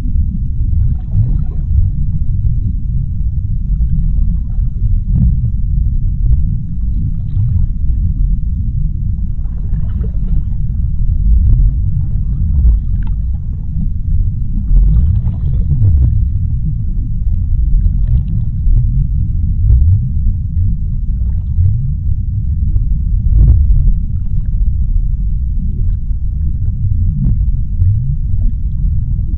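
Underwater ocean ambience: a steady deep rumble with faint scattered clicks and crackles over it.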